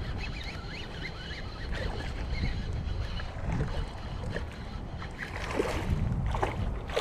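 Wind buffeting the microphone and water lapping and splashing against a kayak, with a few sharper splashes or knocks near the end.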